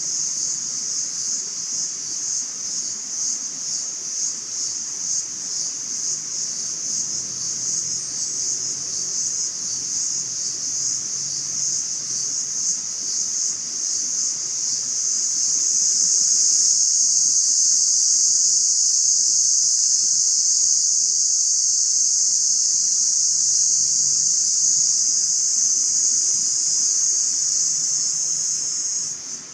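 A chorus of insects chirring in a steady, high-pitched drone, pulsing at first, then louder and unbroken from about halfway through.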